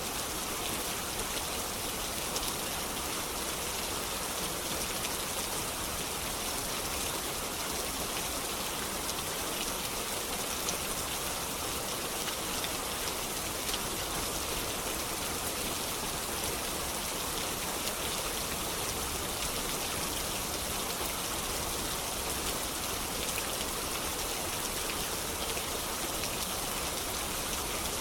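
Steady rain: an even, unbroken hiss with scattered faint ticks of single drops.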